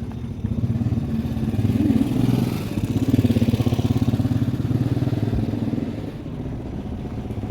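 Motor vehicle engine running with a rapid, even throb, swelling a little about two seconds in and easing off near the end: street traffic.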